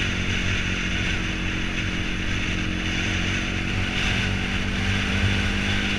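BMW motorcycle engine running at a steady pace, with a steady rush of wind and road noise over it.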